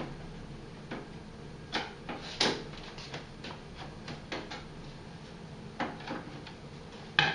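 Combi boiler's casing being handled and fitted back on: a series of separate knocks and clicks, the loudest about two and a half seconds in and another near the end, over a faint steady hum.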